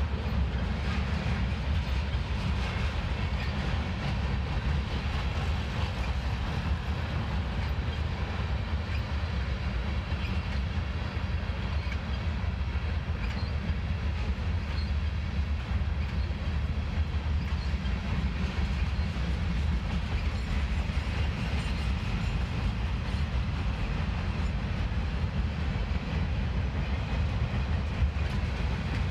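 Union Pacific freight train's cars (covered hoppers, boxcars and tank cars) rolling past at steady speed: a steady low rumble of steel wheels on the rails.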